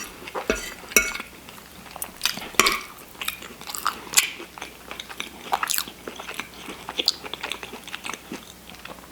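Close-miked chewing of shepherd's pie (mashed potatoes and ground beef): irregular mouth clicks and smacks, a few every second.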